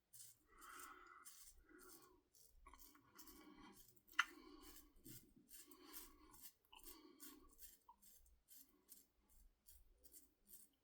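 Shavette blade scraping through lathered stubble in short repeated strokes, about one every half second, with one sharp click about four seconds in.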